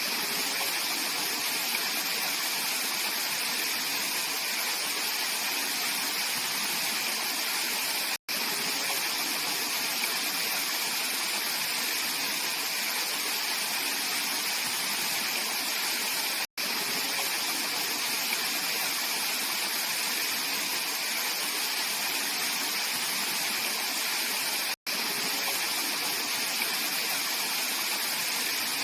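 Mountain valley stream rushing steadily over rocks, a bright, even hiss of flowing water. It cuts out for an instant three times, about every eight seconds.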